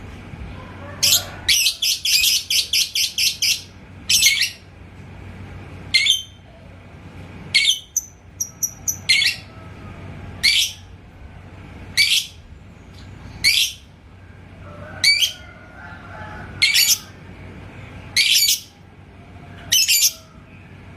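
Lovebird calling: a quick run of about eight shrill, high chirps, then single sharp chirps about every second and a half.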